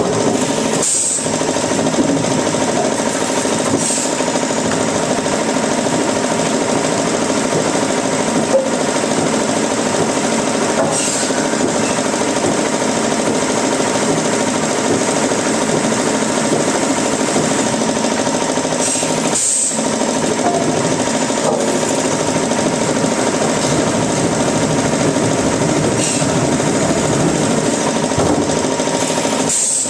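Wood-processing machinery running steadily with a constant mechanical drone and a few steady tones.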